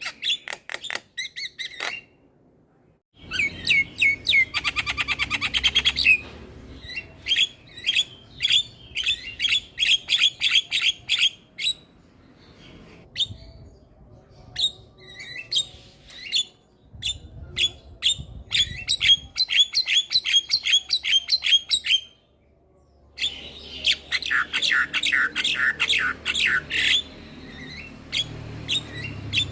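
Javan myna singing: fast runs of sharp chattering and squawking notes, several a second, broken by two short silences.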